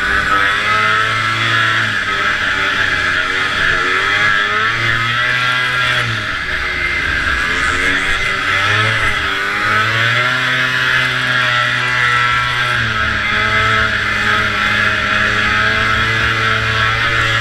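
Vintage racing snowmobile's two-stroke engine running hard, its pitch rising and falling several times as the throttle opens and eases, over a constant loud hiss.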